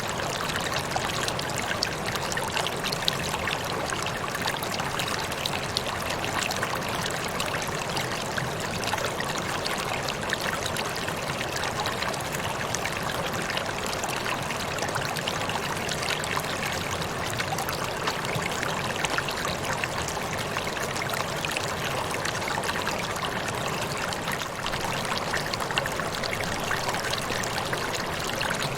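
Waterfall: a steady rush of falling water with fine splashing that stays even throughout.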